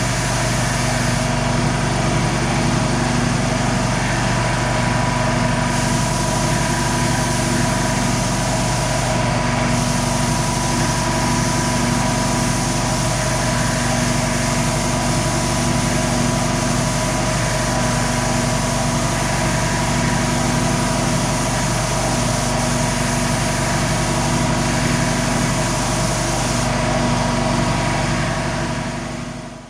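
A machine running steadily, a constant mechanical hum with a few fixed tones, fading out at the very end.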